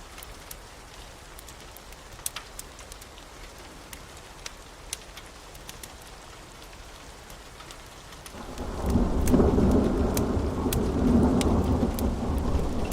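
Steady rain with scattered drops ticking sharply, then a long roll of thunder comes in about two-thirds of the way through and becomes the loudest sound, lasting to the end.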